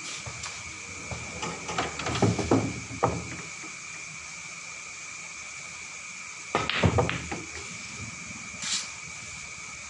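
Billiard balls and cue during play: a run of sharp clacks and knocks about two seconds in, and a heavier clatter with dull thuds a little before seven seconds, over a steady faint high-pitched hum.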